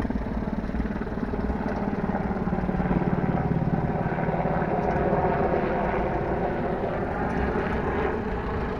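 An engine running steadily with a fast, even pulse, swelling a little in the middle and easing off near the end, as a vehicle runs nearby.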